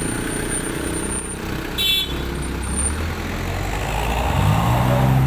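A large diesel bus engine running steadily, then revving up with a rising note near the end. A brief high beep sounds about two seconds in.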